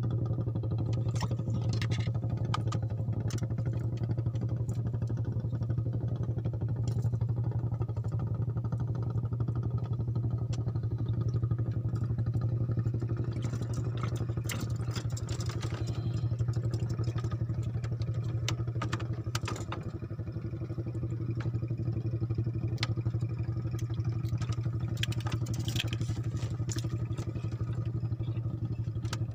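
A small engine running steadily at a constant speed, a low even drone, with scattered light clicks and knocks over it.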